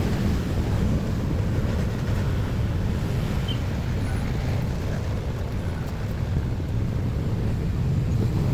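Steady low rumble of motor vehicle traffic, with no sharp events.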